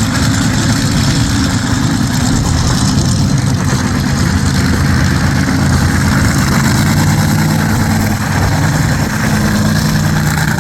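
Methanol-fuelled monster truck engines of about 2,000 horsepower running loudly and steadily, their pitch shifting a little near the end.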